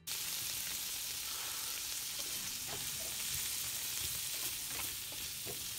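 Boiled kidney beans sizzling in hot oil in a non-stick frying pan, stirred with a slotted spatula that scrapes and knocks against the pan now and then.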